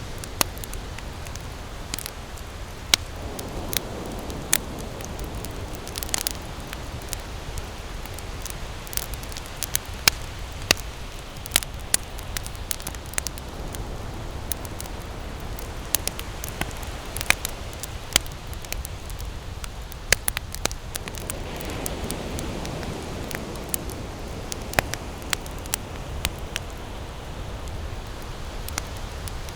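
Wood campfire crackling, with irregular sharp pops about once or twice a second over a steady low rumble.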